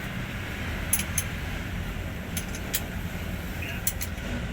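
A steady low engine rumble, with several short, sharp metallic clinks, like tools being handled.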